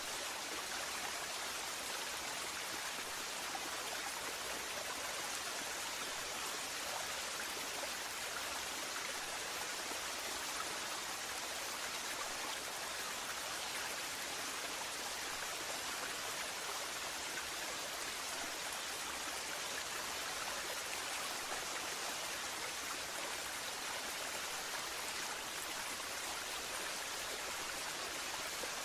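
Waterfall: water falling and rushing in a steady, even hiss with no breaks or changes.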